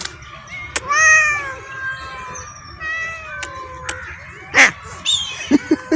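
Street cats meowing and wailing in a tense stand-off over food: three drawn-out calls, the first about a second in, another about three seconds in, and a falling one near the end. A short loud noisy burst comes just before the last call, with a few sharp clicks between the calls.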